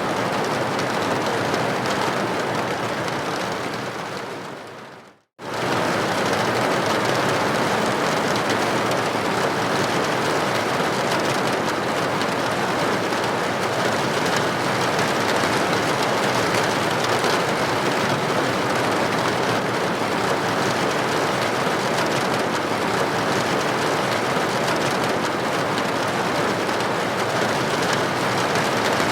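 Steady rain pattering against a building window. About five seconds in, the rain fades out to a moment of silence and then starts again abruptly at full level.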